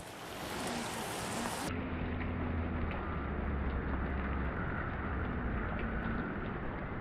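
Rain falling steadily on surfaces, an even hiss. Nearly two seconds in, the sound abruptly turns dull, the high hiss gone, leaving a steady low hum under the rain.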